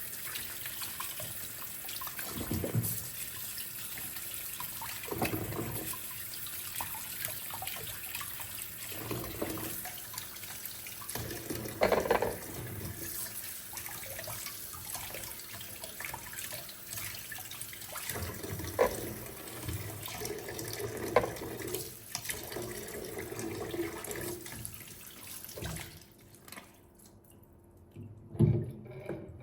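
Kitchen tap running into a sink while fruit and vegetables are rinsed, with a knock or bump from handling every couple of seconds. The water shuts off about three seconds before the end, and one last knock follows.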